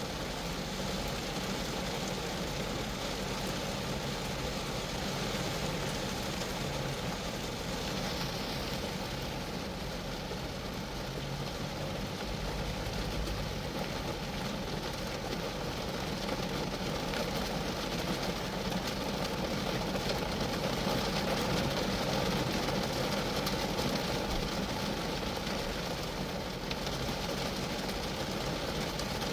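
Steady rain falling on a Geo Metro car, an even wash of many drops that grows a little louder about twenty seconds in.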